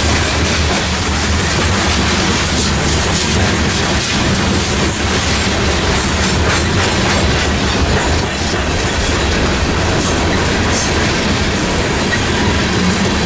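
Freight train of covered hopper cars rolling past close by: a steady, loud rumble of steel wheels on rail, with scattered clicks as the wheels pass over the rail joints.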